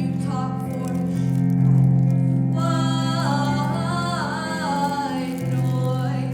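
Solo singer holding sung notes over instrumental accompaniment, with a quick run of changing notes about halfway through.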